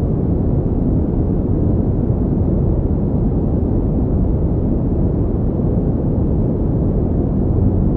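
Continuous pink noise: a steady, deep, even hiss with most of its weight in the low end and no changes.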